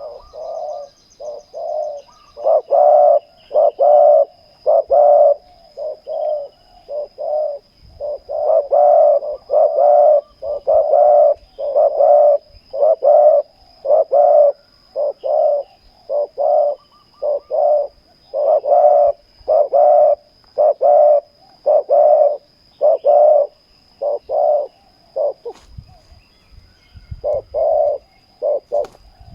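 Spotted doves cooing over and over in a long run of short coos, about one to two a second, some loud and some quieter, with a short break near the end. This is the territorial calling of a caged decoy dove and the wild dove it is luring to the trap.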